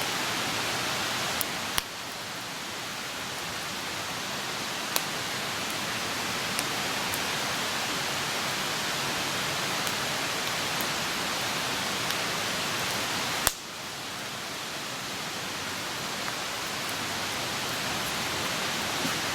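Wood campfire burning with a steady hiss, broken by occasional sharp crackling pops from the burning wood, one louder pop about two-thirds of the way through.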